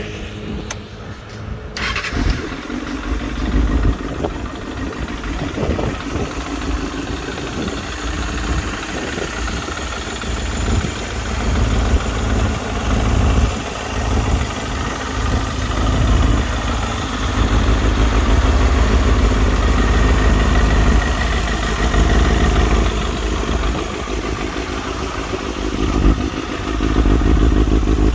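Kawasaki Balius II's 250 cc inline-four, breathing through a BEET NASERT-R full titanium exhaust, fires up about two seconds in. It then runs stationary and is free-revved several times between spells of idle.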